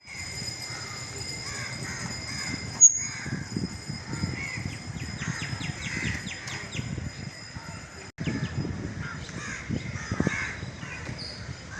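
Birds calling over and over, with a quick run of clicks about halfway through and a sharp click near the start.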